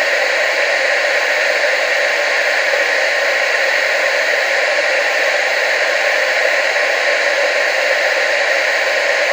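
TV static: a loud, steady hiss with no breaks or changes, bright and thin with almost no low rumble.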